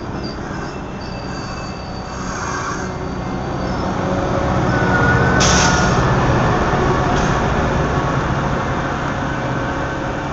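Passenger train passing close by at a grade crossing: a steady rumble of wheels and cars that grows louder to a peak about five seconds in as the locomotive end goes by, with a faint wheel squeal and a brief sharp hiss at the loudest point.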